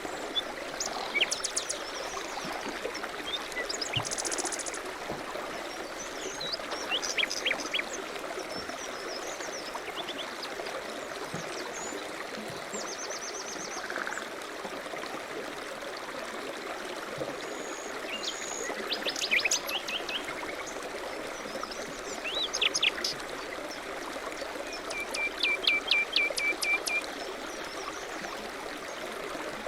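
Steady rush of running river water with songbirds singing over it in short chirps and quick trills, coming in scattered bursts with the busiest near the end.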